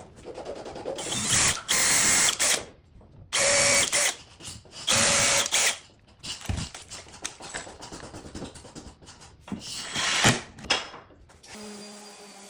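Power drill running in several short bursts of about a second each, with a steady whine while it spins. Lighter knocks and tool handling sounds come between the bursts.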